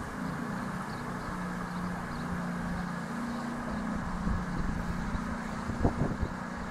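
Diesel locomotive engine running steadily at a low, even hum, with a few short knocks near the end.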